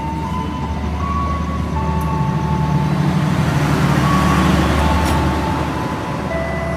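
Long passenger train's carriages rolling past on the rails: a loud, steady rumble that swells to a peak about four seconds in and then eases, with thin high squealing tones from the wheels coming and going over it.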